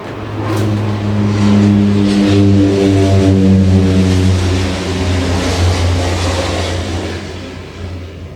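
A motor vehicle's engine running loudly close by, a low hum with a steady pitched drone that swells, holds with slight changes in pitch, and fades near the end.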